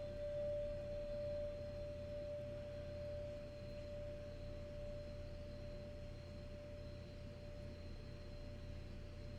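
A single sustained ringing note, like a singing bowl or struck tuning fork, slowly fading over a low steady hum: an eerie tone from the horror film's soundtrack.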